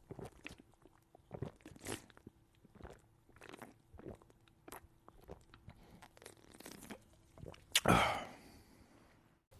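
A person chewing and biting into a chicken burger, with irregular crunching mouth sounds and a louder crunch about eight seconds in.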